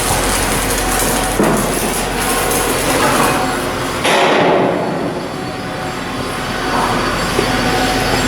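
Shipyard steelwork noise: a dense clatter of metal knocks over machinery noise, changing abruptly about four seconds in, when a steady low hum drops out.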